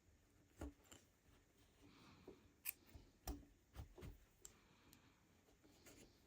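Faint, irregular clicks and soft scratches of a rug hook pushing through the backing and pulling up loops of wool strip, a dozen or so strokes at an uneven pace.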